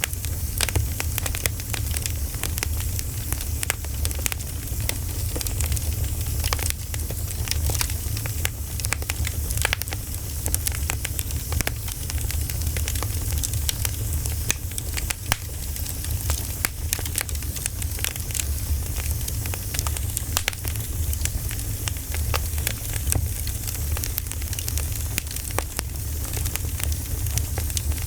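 Crackling campfire: a steady low rumble of flames with frequent irregular sharp pops and crackles of burning wood.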